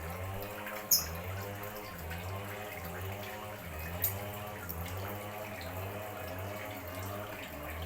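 Water running and splashing steadily, with two sharp clicks about a second in and near the middle.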